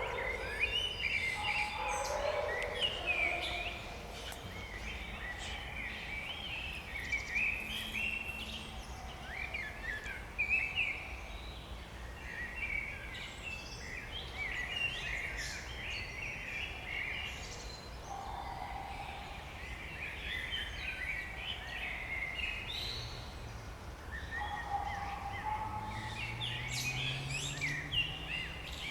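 Several songbirds singing at once in a spring dawn-chorus style, dense with short chirps and warbling phrases, with lower calls from another bird now and then.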